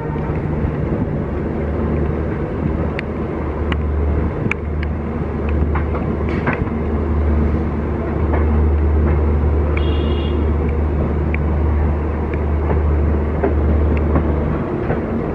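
Running noise of a passenger train coach on the move, a steady low rumble of wheels on rails with scattered sharp clicks. There is a brief high squeal about ten seconds in.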